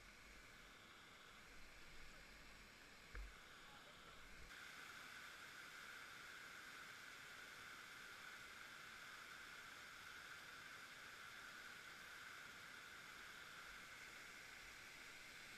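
Faint, even rush of river water, with a few low bumps in the first few seconds. About four and a half seconds in, the rush grows a little louder and steadies.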